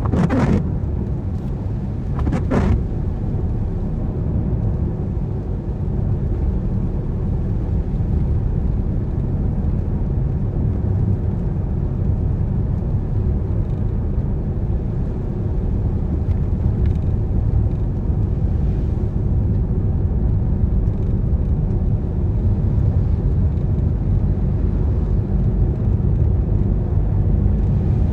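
Car driving on a rain-wet road: a steady low rumble of tyres and engine. Two brief louder swishes come in the first few seconds.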